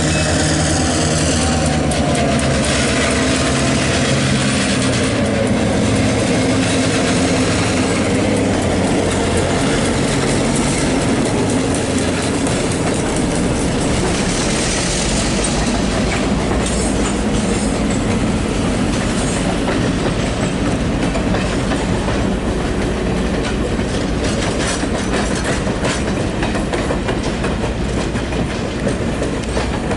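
A train passing on the rails: a locomotive's engine drone through roughly the first twelve seconds, then mainly the cars' wheels clattering over the track with rapid clicks.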